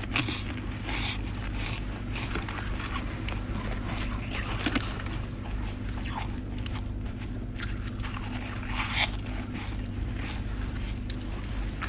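Chest-freezer ice being bitten and crunched in the mouth: irregular crisp crunches and chewing over a steady low hum.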